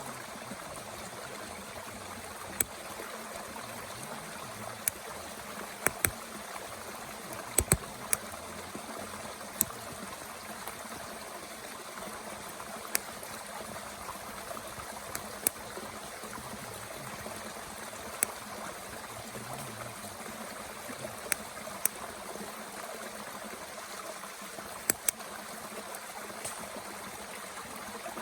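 Stream running steadily, with a dozen or so sharp, irregular pops and crackles from a wood fire burning in a small Bush Box stove.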